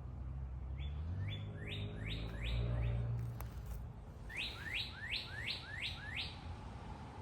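A songbird singing two phrases of repeated, quick down-slurred whistled notes, about five notes each, with a short pause between the phrases. A low rumble swells and fades beneath the first phrase.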